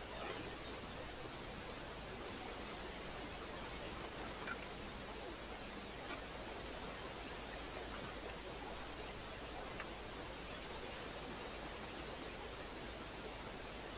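Steady hiss from a trail camera's microphone, with a few sharp clicks in the first second and faint single ticks later on.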